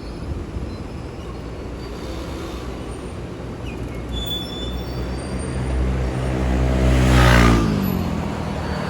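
Electric train running with a low rumble that swells, then its motor whine falls in pitch over the last few seconds as it slows. A short hiss comes at the loudest point, about seven seconds in.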